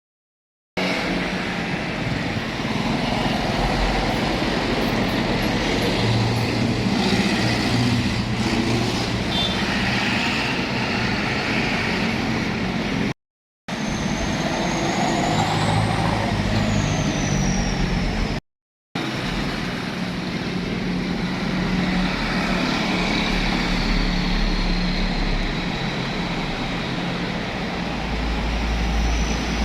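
Heavy Hino trucks' engines running as they drive past on a road, with steady traffic noise. A high tone rises and falls briefly about halfway through. The sound drops to silence twice for a moment.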